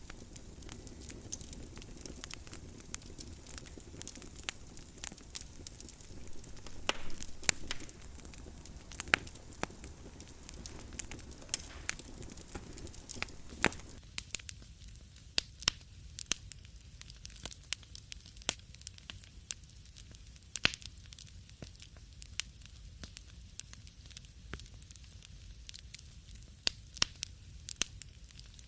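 Wood fire in a fireplace crackling, with irregular sharp pops and snaps over a steady low rumble. About halfway through, the background hiss thins out abruptly while the pops carry on.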